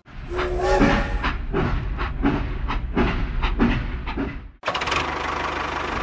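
Steam-train sounds: a rhythmic chugging with short pitched toots, which cuts off sharply about four and a half seconds in and gives way to the steady running noise of a toy steam locomotive on its track.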